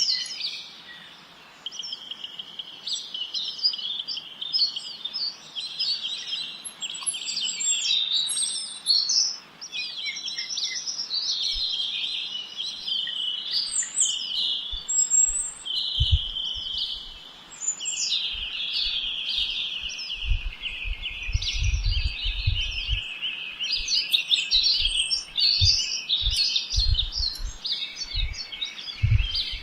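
Songbirds singing without a break, many trills and chirps overlapping in a dense, high-pitched chorus. Short low thumps come in now and then through the second half.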